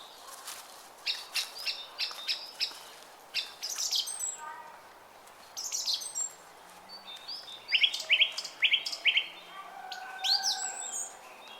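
Several songbirds chirping and calling, in quick runs of sharp repeated chirps, rising whistled sweeps and a few lower whistles, over the steady rush of a brook.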